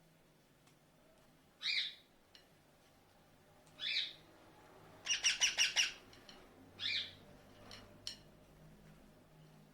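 A pet parrot calling: three short separate calls, with a quick run of about six notes between the second and the third.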